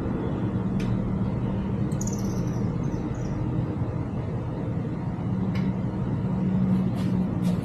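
A steady low mechanical hum, with a few light clicks and taps and a short high chirp about two seconds in.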